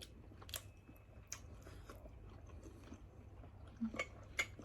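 A person chewing food close to the microphone, with a few sharp clicks, the loudest two near the end.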